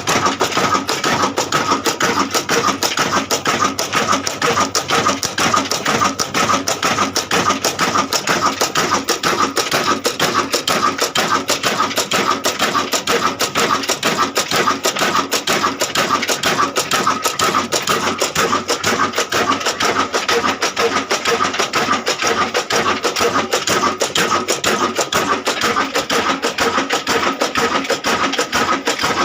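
Ruston stationary diesel engine running steadily with a rapid, even knocking beat and a steady high tone over it.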